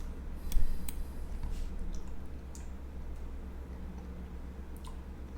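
A few sharp, scattered clicks, the loudest about half a second in, over a steady low electrical hum.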